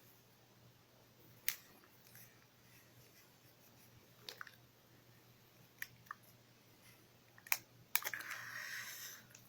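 Plastic packaging of a jelly snack being handled and worked open: a few scattered sharp clicks and taps, then about a second of rustling near the end.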